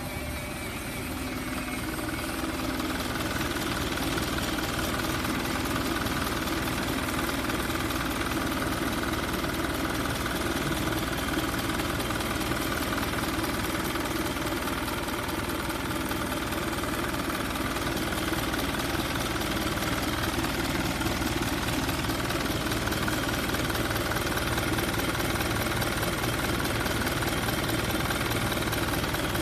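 2005 Mazda Titan truck engine idling steadily, getting a little louder over the first few seconds.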